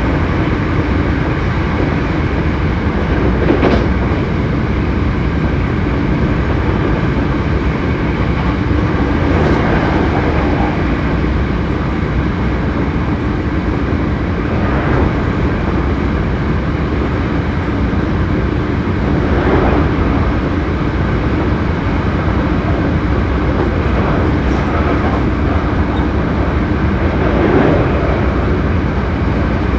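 Hankyu 7300 series electric train running at speed: a steady rumble with a constant hum, broken by a few brief louder swells. The car is one known for an unusual running noise.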